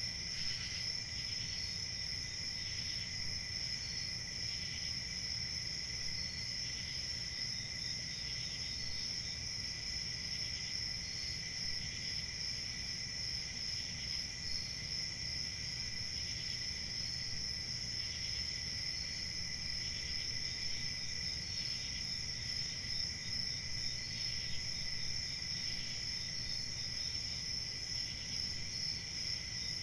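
Crickets chirping steadily, several in chorus, with a fainter chirp repeating about every second and a half.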